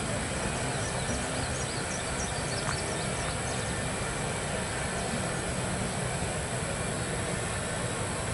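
Norfolk Southern double-stack freight train rolling steadily across a bridge: a continuous rumble and clatter of wheels on rail, with a few faint high chirps about two to three seconds in.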